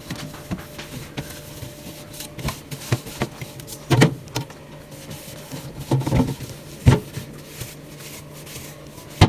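Fridge shelves, drawers and containers being handled and moved: scattered knocks, clunks and rubbing, with a few louder knocks, over a faint steady low hum.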